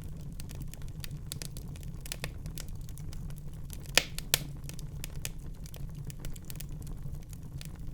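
Fireplace fire crackling: dense, irregular small snaps over a steady low rumble, with two loud pops close together about four seconds in.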